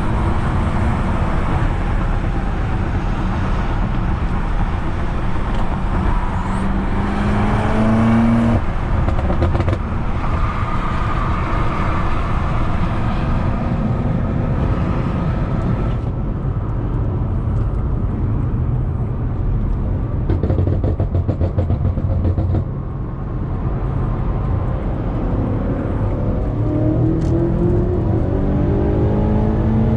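BMW F90 M5 Competition's twin-turbo V8 with a loud exhaust, driving. The engine note climbs under acceleration from about six seconds in and drops sharply at a gear change, runs steadily for a long stretch, then climbs again near the end.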